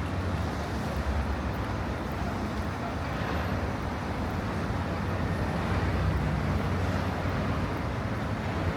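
Steady city street traffic: a continuous low rumble of passing vehicles.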